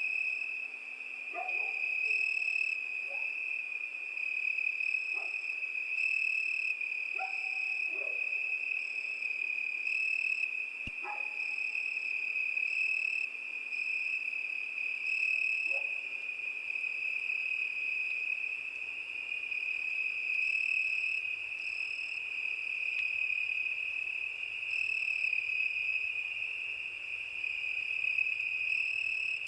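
Crickets singing in a steady, continuous high trill, with a higher chirping insect joining in on and off every second or so. A few faint short calls sound in the first half.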